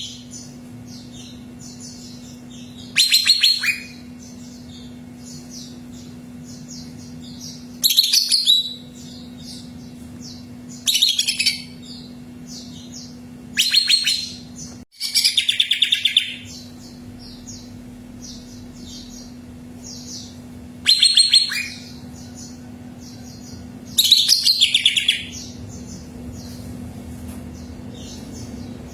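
Cucak ijo (leafbird) singing loud, short, high phrases every few seconds, with softer high twittering in between. A steady low hum runs underneath.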